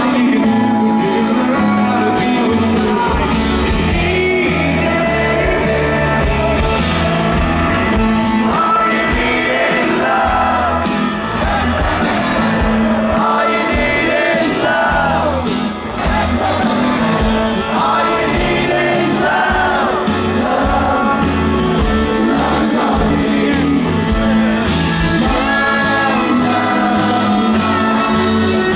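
Rock band playing with a lead singer, with some crowd shouting mixed in.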